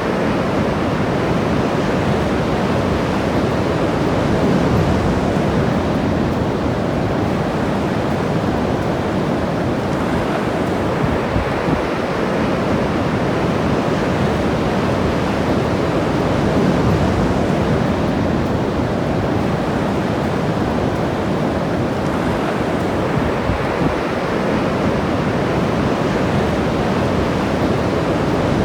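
Ocean surf breaking and washing on a beach: a steady, dense rush that swells gently now and then.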